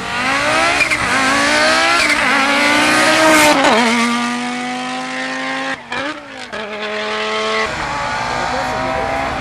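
Rally car engine under hard acceleration. The revs climb and drop at several quick gear changes, hold steady and high for a few seconds with a short lift about six seconds in, then fall away near the end.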